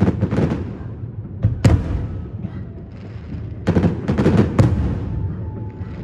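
Fireworks going off: a run of sharp bangs and crackles over a continuous low rumble, with a loud single bang a little under two seconds in and a rapid cluster of bangs about four seconds in.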